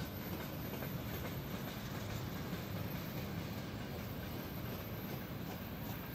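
Freight train's tank cars and covered hopper cars rolling past, a steady noise of steel wheels on rails with faint wheel clicks.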